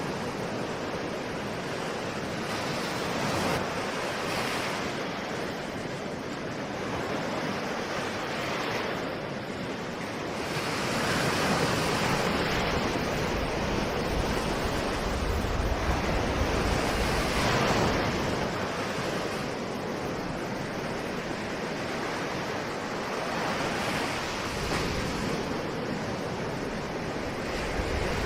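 Ocean waves breaking and washing on a shore: a continuous hiss of surf that swells and subsides every few seconds, loudest midway through.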